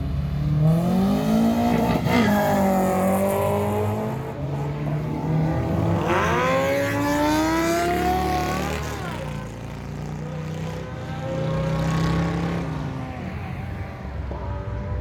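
Car engine revving hard, its pitch climbing steeply twice, about a second in and again around six seconds in, each time dropping away after a couple of seconds, over a steady low engine rumble.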